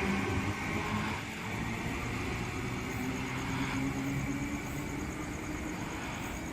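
Eight-car Tangara electric suburban train (sets T90 and T7) pulling away from the platform: steady motor tones over wheel rumble, fading over the first second or so and then running on more quietly.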